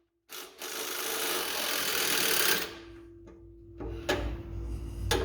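Ratchet on a 14 mm deep socket clicking rapidly for about two seconds as an exhaust flange bolt is spun loose, then a few separate clicks and knocks of the tool on the bolt.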